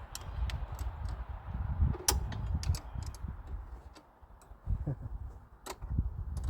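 Irregular metallic clicks and taps of hand tools on the battery cable connections and switch terminals as they are tightened, the loudest about two seconds in, over a low rumble.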